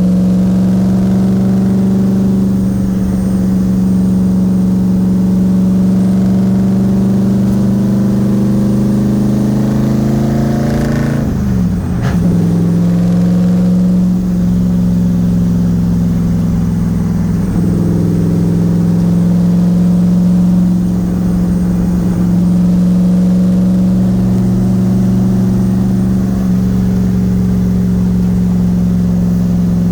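Nissan VK56 twin-turbo V8 in a 300ZX, cruising steadily, heard from inside the cabin as a steady engine drone. About eleven seconds in the pitch climbs, then drops sharply and picks up again, as with a gear change.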